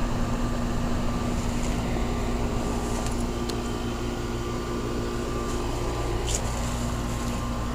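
2006 Goodman 3-ton central air-conditioner condensing unit running: a steady electrical hum under the even whir of its condenser fan.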